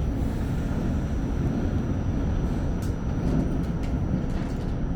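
Subway train running with a steady low rumble, with a few faint clicks and a thin high whine in the middle.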